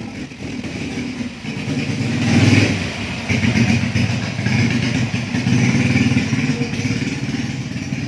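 A small engine running steadily, briefly louder about two seconds in before settling back.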